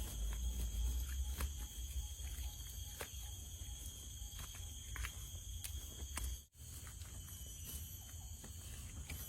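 Forest insects, crickets or similar, keep up a steady high-pitched chorus, with scattered sharp clicks and taps and a low rumble underneath. The sound drops out briefly about six and a half seconds in.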